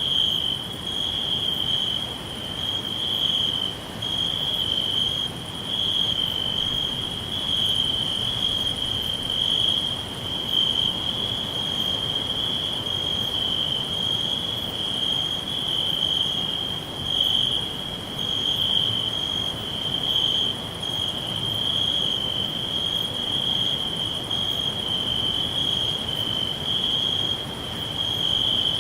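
Crickets chirping in a steady, unbroken high trill that pulses slightly, with a fainter, higher chirp repeating at regular short intervals over a soft background hiss.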